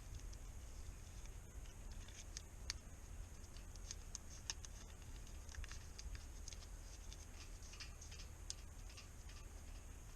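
Faint, irregular small ticks and crackles of adhesive tape being torn and wrapped around the end of a new mainsheet, over a low, steady background rumble.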